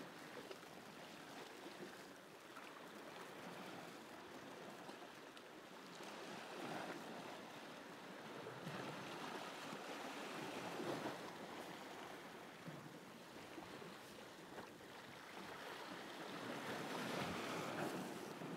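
Sea waves washing against the shore, a soft hiss of surf that swells and eases over several seconds and grows louder near the end.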